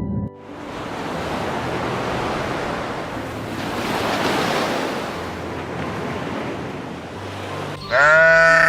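Sea waves washing in a steady rush of noise that swells and fades. About a second before the end, a loud bleat begins.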